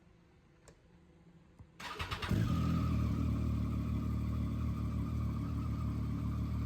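Triumph Street Triple 675R's 675cc three-cylinder engine, fitted with an Arrow exhaust, starting: a brief crank about two seconds in, then it catches and settles into a steady idle.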